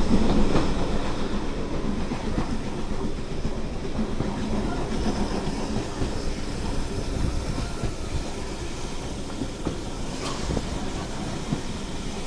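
Steam-hauled passenger train running along the line, heard from a carriage: a steady rumble with the clickety-clack of wheels on the track, loudest about the first second.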